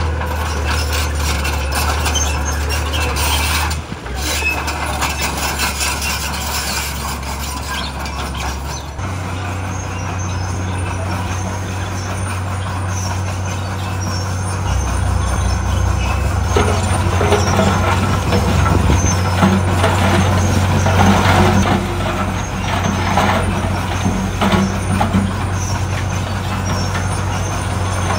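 Heavy diesel earthmoving machinery running steadily, its engine note shifting a couple of times early on, with louder rattling and scraping noises over the second half.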